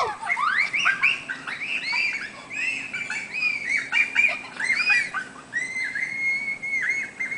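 Birds chirping: many quick rising-and-falling chirps, often overlapping, starting suddenly. A longer, steadier whistled note with brief dips follows near the end.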